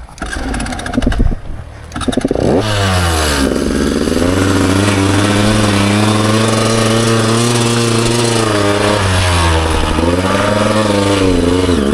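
Dirt bike engine revving up about two and a half seconds in, then running steadily at high revs, easing off and picking back up twice near the end. Some clattering comes before it.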